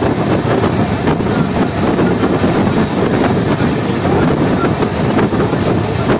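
Steady running noise of a moving passenger train heard from on board, with wind rushing over the microphone.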